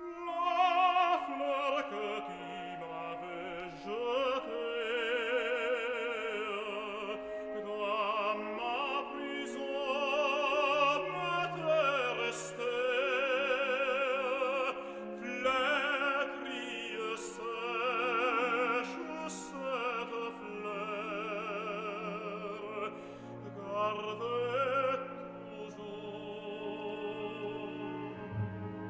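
An opera singer sings an aria in sustained notes with strong vibrato, over orchestral accompaniment.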